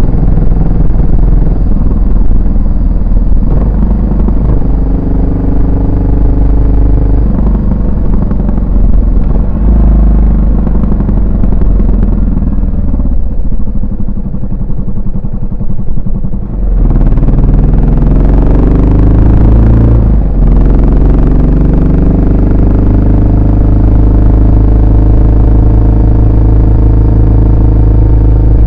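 Yamaha SR400 single-cylinder four-stroke exhaust while riding. Its note sags and softens from about twelve seconds in, rises again from about seventeen seconds with a brief break near twenty, and then settles into steady cruising.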